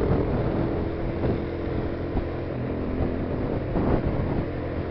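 Steady engine hum and road noise of vehicles travelling at speed on a road.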